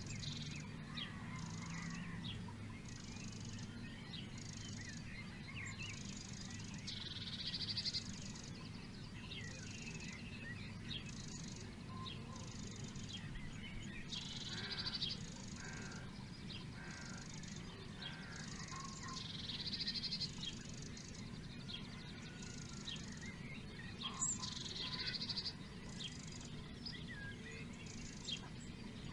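Wild birds singing. One bird repeats a short loud song phrase about every five seconds, among scattered shorter chirps. Throughout, there is a steady, evenly pulsing high chirping and a faint low hum.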